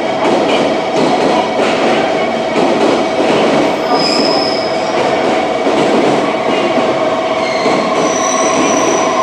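JR Kyushu 415 series 1500-subseries electric train running into the station on curved track, its wheels clicking over rail joints and its flanges squealing in high thin tones from about halfway through.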